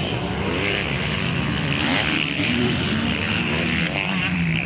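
Several 250 cc motocross bikes racing, their engines revving up and down through the gears with overlapping rising and falling pitches.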